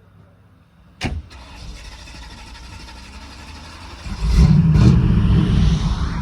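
A car engine starting: a sudden sharp sound about a second in, then the engine catching about four seconds in and running loudly with a deep rumble.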